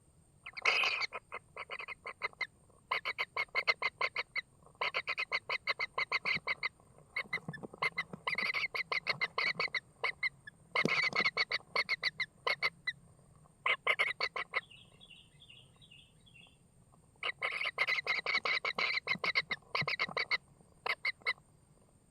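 Kingfisher giving harsh, rapid rattling calls in repeated bouts of one to three seconds. A fainter, higher trill from another bird comes in briefly about halfway through.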